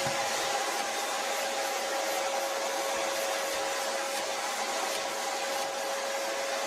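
An electric motor moving air, running steadily with a constant whine and a rushing hiss after spinning up just before.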